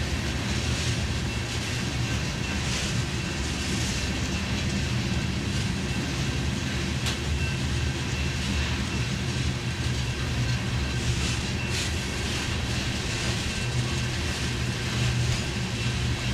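Empty open-top hopper cars of a Union Pacific rock train rolling past close by. The steel wheels make a steady low rumble on the rails, with a hiss that swells now and then and a faint thin high tone running through.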